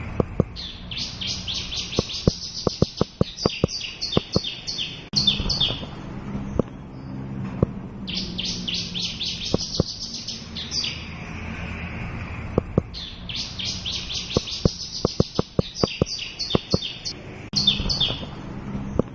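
Javan bush lark (Horsfield's bush lark) singing: phrases of rapid, high chirps and trills that stop and start every few seconds, with many sharp clicks mixed in.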